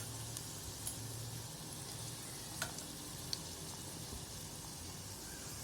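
Medhu bondas, gram-flour fritters, deep-frying in hot oil on a medium flame: a steady, even sizzle. A couple of faint clicks come partway through.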